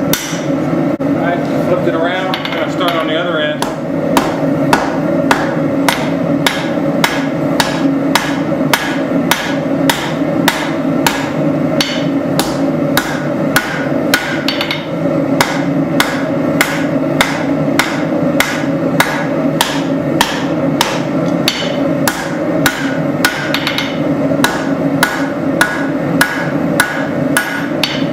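Forging hammer striking hot spring steel on an anvil in a steady rhythm, about two to three blows a second, over a steady drone. The blows become regular about four seconds in.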